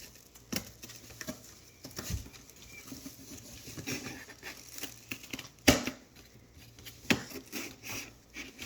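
Thick cardboard being cut and handled by hand: irregular crinkling and scraping with a few sharp snaps, the loudest about six seconds in.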